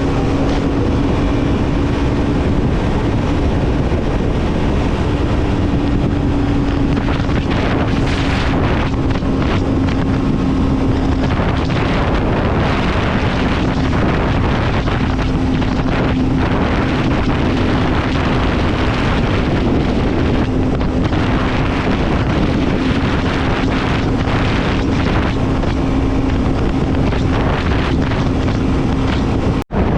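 Triumph Scrambler 400 X's single-cylinder engine and exhaust running at a steady cruise, its pitch nearly constant, with wind buffeting the microphone. The sound cuts out for an instant near the end.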